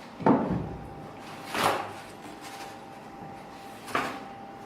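A wooden shipping pallet is handled as it is lifted off a packed stove. There is a heavy dull thump about a quarter of a second in, then a brief scraping swish, then a shorter, sharper wooden knock near the end.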